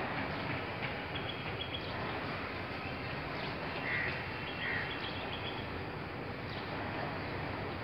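Birds calling over a steady outdoor background hiss: two short calls about four seconds in, and thin, high repeated chirps on and off.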